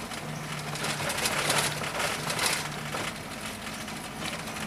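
Volkswagen Voyage's AP engine running steadily as the car drives, heard from inside the cabin, with a rushing road noise that swells about a second in and fades before three seconds.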